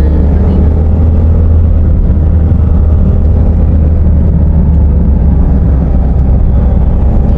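Steady, loud low rumble of a car driving on a winding hill road: engine and road noise.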